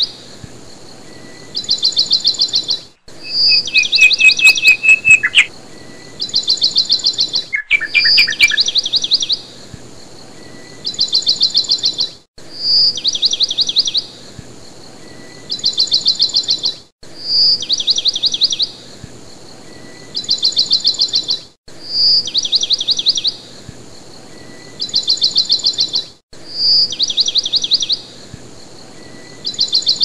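Birdsong: the same phrase of a short whistled note followed by a rapid high trill, repeating identically about every four and a half seconds like a looped recording. Other lower chirps join in during the first several seconds.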